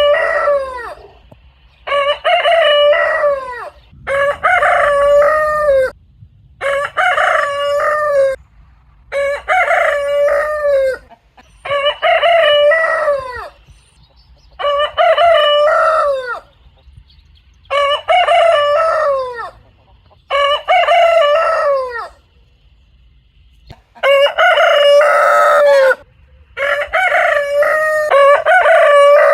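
Roosters crowing one after another, about eleven full cock-a-doodle-doo crows of about one and a half to two seconds each, with short breaks between them and a longer pause near the end.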